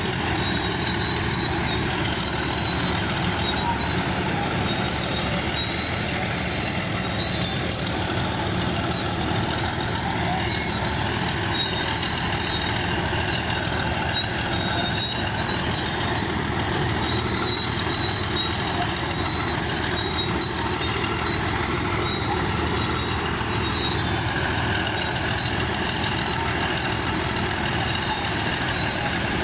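Bulldozer's diesel engine running steadily at working load, with a thin high whine on top.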